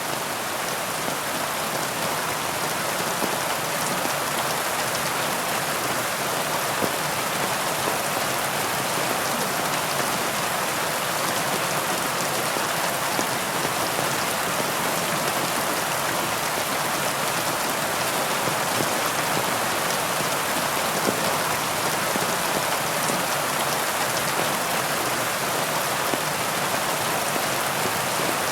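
Steady heavy rain falling on leaves, a dense even hiss with occasional individual drops standing out.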